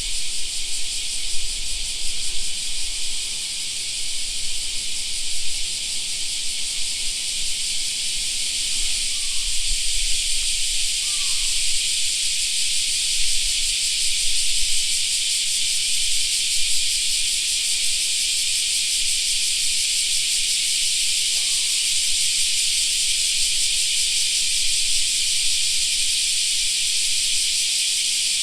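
Cicadas singing in a dense, steady chorus. A few brief faint calls come through it about nine to eleven seconds in and again about twenty-one seconds in.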